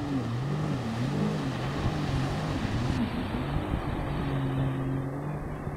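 Jet ski engine running, its pitch rising and falling repeatedly as the throttle is worked, then holding steady for about a second near the end.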